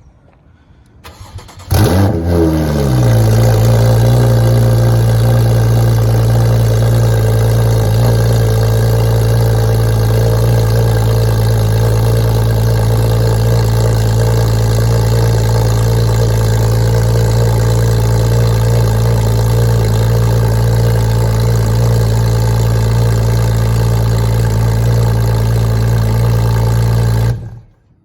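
Cold start of a 2015 Porsche 981 Cayman flat-six through catless titanium headers and exhaust. The starter cranks briefly and the engine catches about two seconds in. The revs flare and fall, settle into a steady loud cold idle, and the engine cuts off suddenly near the end.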